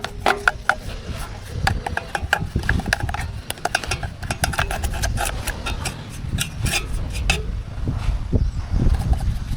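Rapid, irregular knocks and clinks, some briefly ringing, over a steady low rumble.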